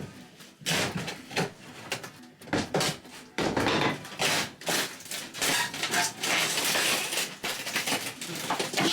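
A hand adze (the Bulgarian 'tesla') striking and prying at a caravan's interior panelling: a few sharp knocks, then from about three and a half seconds in a longer stretch of crunching, cracking and scraping as material is broken out.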